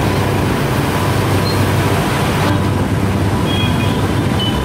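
Steady low rumble of vehicle noise, with a few short high-pitched tones near the end.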